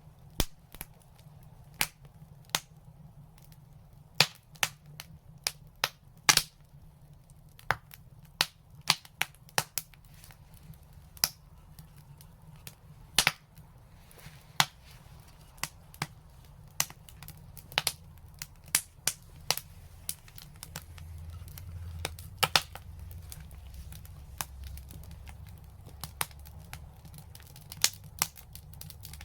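Wood fire crackling, with sharp, irregular pops and snaps a few times a second over a low, steady rumble that swells a little past the middle.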